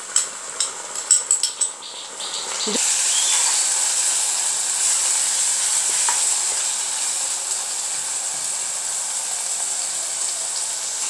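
A spoon clicks and scrapes a few times against a bowl as onion paste goes into the pan. Then, from about two and a half seconds in, steady sizzling of the paste and sliced onions frying in hot oil.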